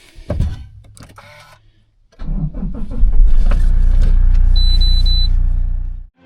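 A thump, then a vehicle engine starts about two seconds in and runs steadily and loudly, with three short high beeps partway through, before cutting off abruptly near the end.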